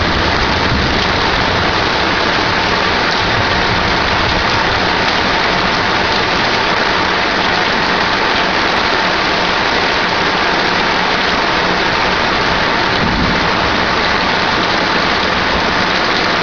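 Heavy thunderstorm rain pouring down, a steady, loud hiss.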